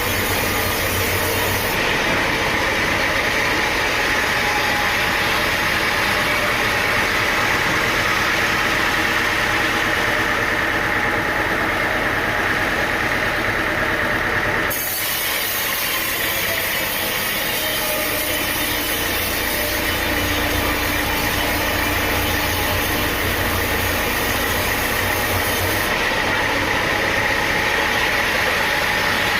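Sawmill machinery running with a steady, loud mechanical drone. Its character changes abruptly about 15 seconds in.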